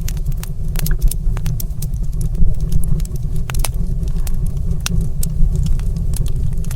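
Wood fire crackling in a stone fireplace: irregular sharp pops and snaps over a steady low rumble of burning.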